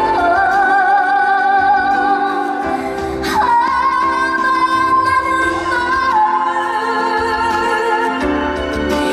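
A woman singing a slow trot ballad over band accompaniment, holding long notes with wide vibrato; a new phrase starts on a higher note about three and a half seconds in.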